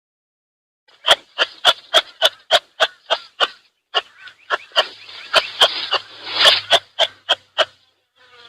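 An animal giving a rapid run of short, sharp calls, about three or four a second, starting about a second in and stopping near the end.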